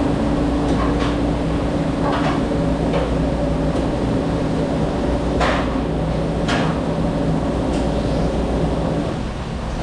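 Steady hum of commercial dish-room machinery, with dishes and racks knocking a few times, the loudest about five and a half and six and a half seconds in.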